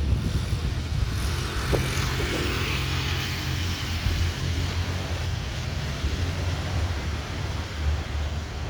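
Airbus A320neo jet engines heard overhead on its approach to land: a steady, deep rumble with a broad roar that swells in the first few seconds and then eases slowly, mixed with wind buffeting the microphone.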